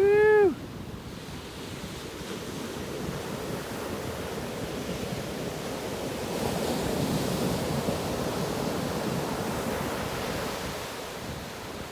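Ocean surf breaking and washing on a beach, a steady rush that swells a little midway, with wind buffeting the microphone. A man's "woo!" cheer at the very start.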